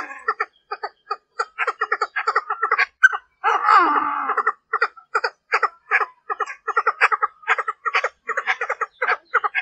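Female Chinese francolin calling: a fast series of short clucking notes, about four a second, with a longer harsh chattering call about four seconds in. It is a hen's call of the kind used as a lure to draw territorial males.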